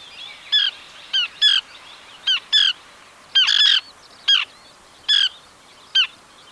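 Small pratincole calling: a series of short, high chirps, many in quick pairs, about a dozen in all.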